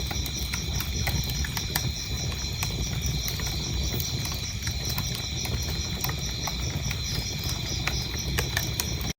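Wood fire crackling in a fireplace: a steady low rumble of flames with scattered sharp pops. Crickets chirp steadily over it in a fast, even rhythm.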